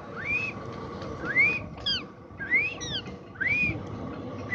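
Parrot giving a series of short, shrill calls that sweep up in pitch, about one a second, with a couple of falling calls in between.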